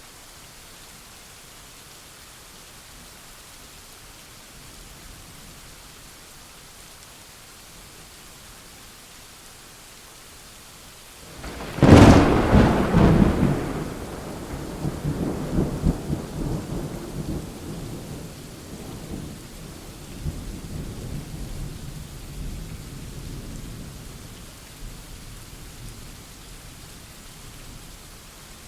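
Steady rain falling, then a close thunderclap about twelve seconds in: a sharp crack followed by a long, low rolling rumble that slowly fades under the rain.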